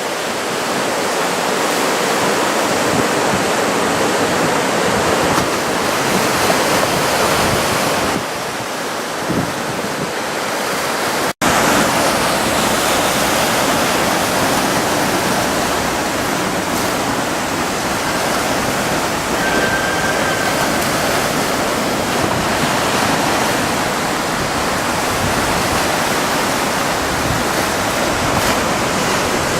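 Ocean surf from a large typhoon swell breaking and washing onto the shore, a steady loud rush of water, with a momentary break about eleven seconds in.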